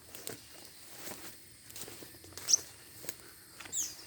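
A newly caught young songbird giving two short high chirps, about two and a half and nearly four seconds in, among light tapping and rustling.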